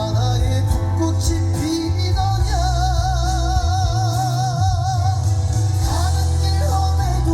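Live trot song: a male singer holds one long note with a steady vibrato for a couple of seconds, over a loud band backing with heavy bass.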